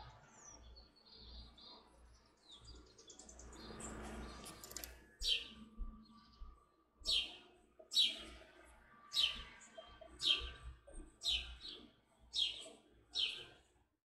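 Songbird calls: soft high twittering, then from about five seconds in a series of loud, sharp chirps, each sliding steeply down in pitch, about one a second.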